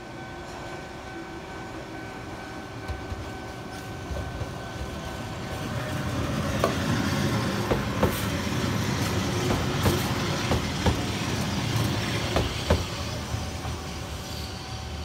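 Eizan Electric Railway 900-series 'Kirara' two-car electric train approaching and passing close by: a rumble that grows louder through the first half, with a run of sharp clacks as its wheels cross the rail joints and crossing while it passes. A level-crossing warning bell rings steadily under it, heard clearly at the start and again near the end.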